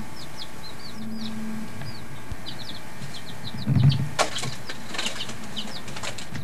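A small bird chirping over and over in short, high, curving notes, with a low bump and a few sharp clicks about four seconds in.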